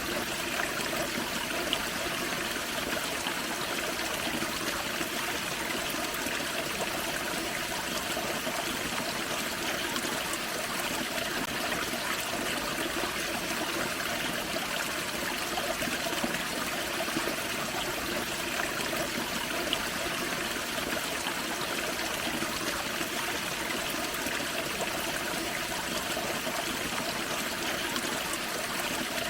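Forest creek water splashing and trickling over a small waterfall, a steady even rush with no breaks.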